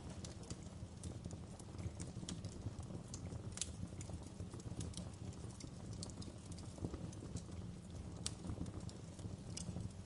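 Wood fire crackling in a fireplace: irregular sharp pops and snaps of burning logs, several a second, over a steady low rumble of the flames.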